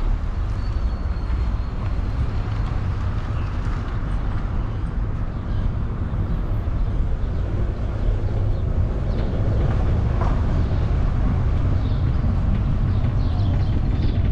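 Steady low rumble of a vehicle on the move, with a few faint higher sounds over it.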